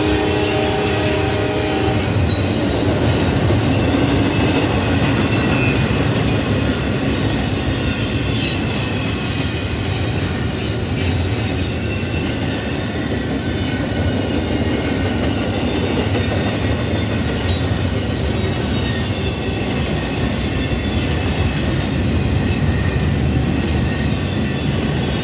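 Kansas City Southern double-stack intermodal freight train rolling past at close range: a steady rumble of wheels on rail, with high wheel squeals coming and going. A locomotive horn chord is still sounding at the start and ends about two seconds in.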